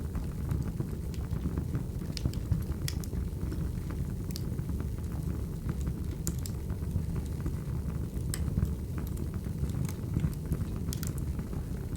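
Crackling wood fire: a steady low rumble of burning logs with sharp pops and crackles scattered every second or two.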